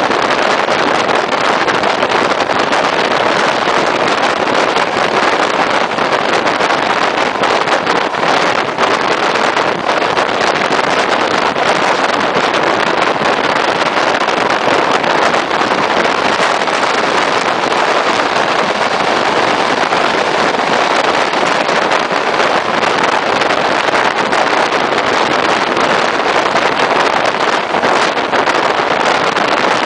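Regional passenger train running at speed, heard from an open carriage window: a loud, steady rush of wind and running noise from the train.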